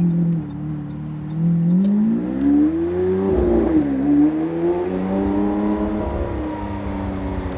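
Lamborghini Aventador's naturally aspirated 6.5-litre V12 accelerating hard, its pitch climbing, dipping briefly about four seconds in, climbing again, then levelling off and easing near the end.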